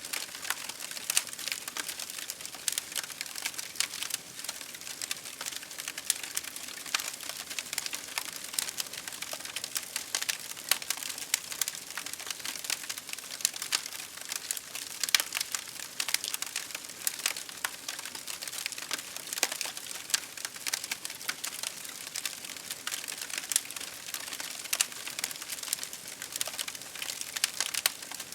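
Campfire crackling: a dense, irregular stream of sharp pops and snaps over a steady hiss.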